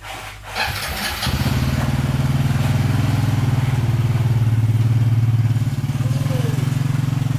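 Small motorcycle engine starting about a second in, then idling steadily.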